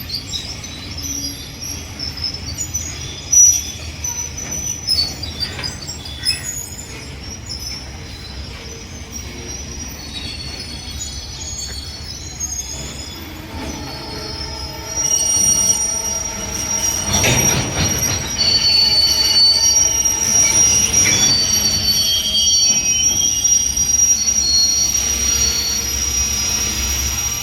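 Freight train of BOXN wagons hauled by two WDG4 diesel locomotives running past, with a steady low rumble and wheels squealing in high, steady tones that get louder about halfway through.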